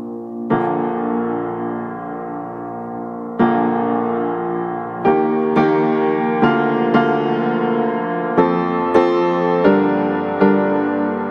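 Piano music: slow chords and single notes that ring on, with two widely spaced chords at first and then a note about every half second.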